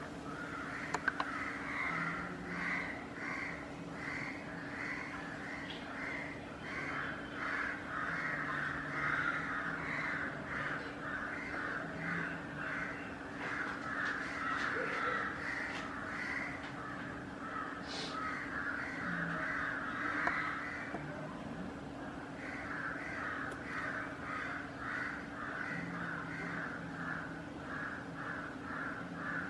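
Birds calling in a continuous rapid series of short notes, about two or three a second, over a steady low hum.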